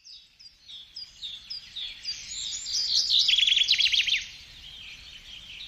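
Birds chirping: a run of short, falling whistles, with a quicker, louder trill about three seconds in lasting about a second.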